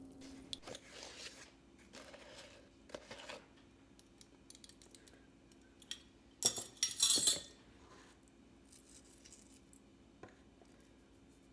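Small hard objects being handled: light clicks, taps and clinks, with a louder burst of clatter and rustling about six to seven seconds in.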